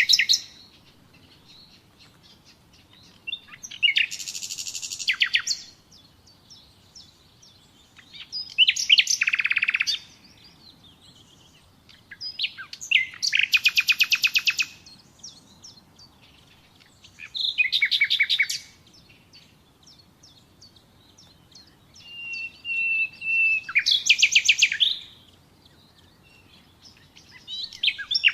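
Common nightingale singing: short phrases of fast repeated notes and trills, one opening with a held whistle, separated by pauses of a few seconds. Six phrases in all.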